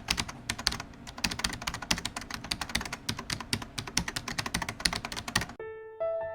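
Rapid keyboard typing clicks, many a second, stopping about five and a half seconds in, when soft piano notes begin.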